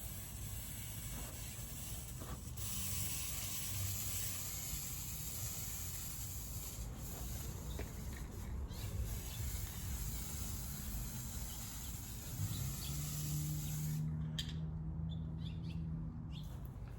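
Spray paint hissing in long, steady passes, with two brief breaks. It stops about 14 s in and gives way to short clicks and clinks, while a low steady hum runs near the end.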